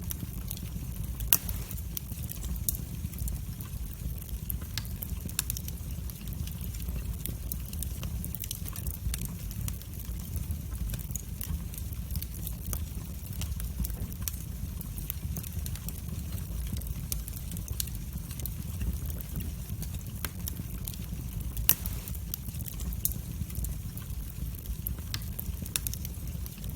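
Wood fire burning in a fireplace: a steady low rumble of flames with frequent sharp crackles and pops, two louder pops about a second in and near the end.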